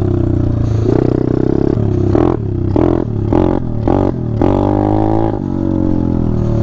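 Small single-cylinder four-stroke off-road bike engine running and being revved in quick blips about every half second, then held at higher revs for about a second before easing off.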